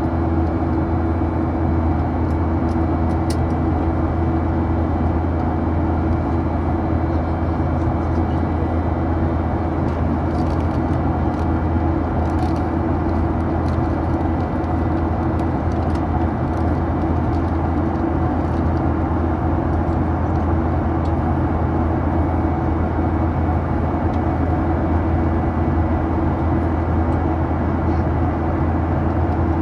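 Steady drone of a Boeing 737-800's CFM56-7B engines and airflow heard inside the passenger cabin, a low hum with a few fixed whining tones above it. It holds level throughout, with a few faint ticks.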